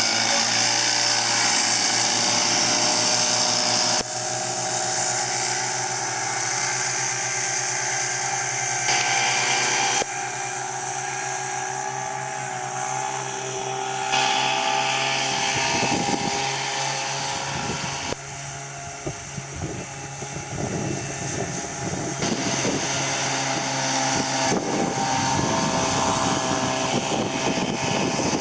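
Veterok-12 two-stroke outboard motor running steadily under way at racing speed, its loudness stepping up and down abruptly several times. Irregular low thumps come in over the second half.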